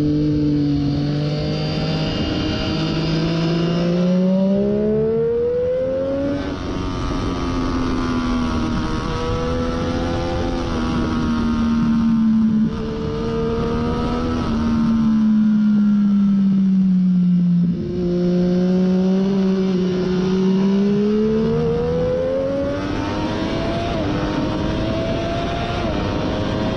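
2014 Triumph Daytona 675 inline three-cylinder engine with a Hindle slip-on muffler, running hard on track. It revs up and down, its pitch climbing several times and falling slowly once, with a couple of brief dips in the note.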